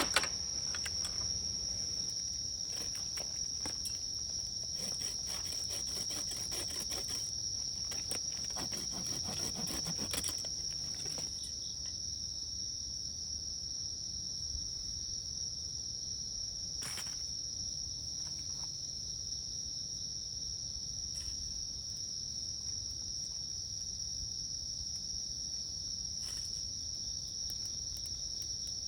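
Steady high-pitched chorus of insects, likely crickets or other singing insects, with no break in it. For roughly the first ten seconds it comes with a run of light clicks and crackles.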